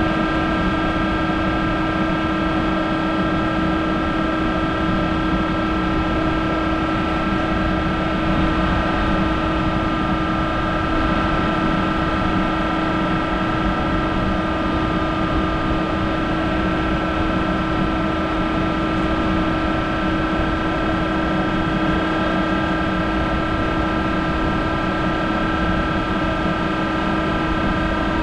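Monarch 10ee toolroom lathe running steadily while turning a hardened steel tool holder: an even machine hum with a constant high whine and no change in speed.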